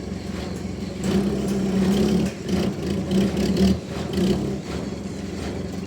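A machine's engine running, working harder and louder from about a second in until past four seconds, its drone rising and dipping unevenly, then easing back to a steadier run.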